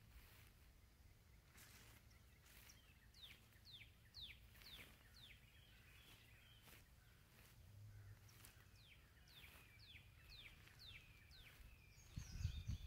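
A songbird singing a long series of short whistled notes, each sliding sharply down in pitch, repeated about twice a second, faint against a quiet background.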